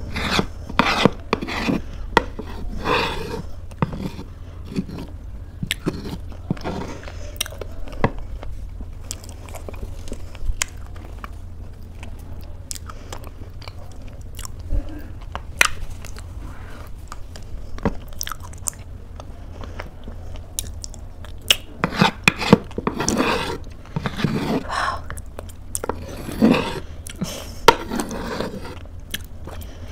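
Close-miked chewing of oatmeal, mixed with the clicks and scrapes of a metal spoon against the inside of a wooden bowl. It is busiest about the first few seconds and again toward the end, and sparser in between.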